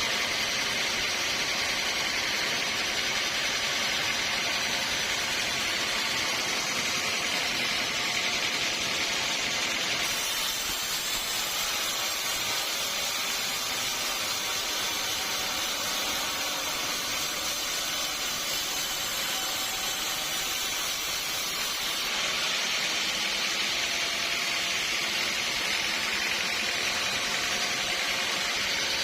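Sawmill machinery running steadily, a continuous mechanical hiss and hum, with its tone shifting abruptly twice.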